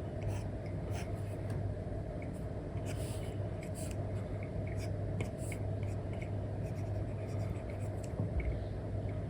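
Apple Pencil 2 tip, fitted with an Elecom nib, scratching and tapping across an iPad screen covered with a paper-like film: irregular short strokes and light ticks over a steady low hum.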